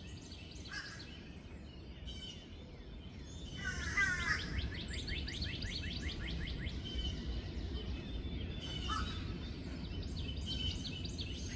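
Several songbirds singing at once, with rapid trills of repeated chirps. A louder run of falling notes comes about four seconds in. A steady low rumble sits underneath.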